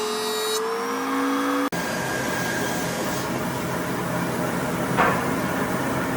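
An electric power tool's motor runs with a steady whine that rises slightly in pitch, then stops abruptly about a second and a half in. A steady mechanical noise with a low hum follows.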